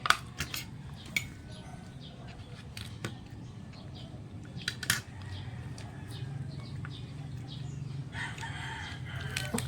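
Sharp crunches and clicks from eating crispy pata (deep-fried pork knuckle), scattered through the first half. Near the end a rooster crows once.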